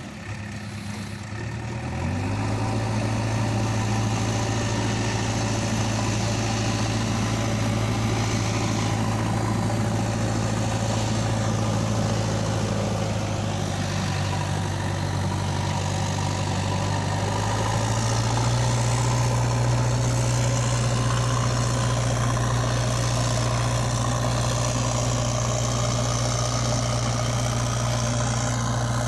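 An engine idling steadily. Its pitch steps up slightly about two seconds in and again a little past halfway.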